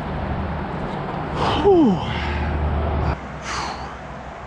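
A man's loud gasp, falling steeply in pitch, about a second and a half in, then a breathy exhale near the end, over steady low background noise.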